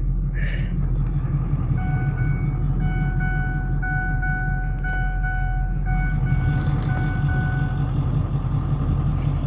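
Steady low rumble of a tow vehicle's running engine, heard from inside. From about two seconds in to about eight seconds in, a run of short electronic beeps, irregularly spaced, sounds over it.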